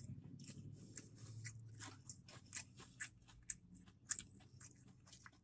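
Close-up chewing of crispy fried chicken: a run of irregular small crunches and wet mouth clicks.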